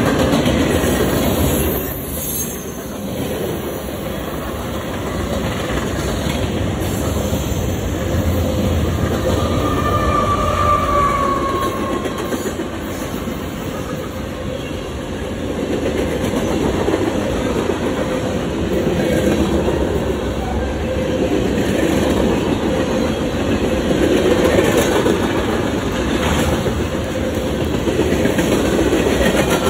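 Freight cars rolling past, steel wheels clacking over the rail joints with a continuous rumble. A brief high wheel squeal sounds about a third of the way in.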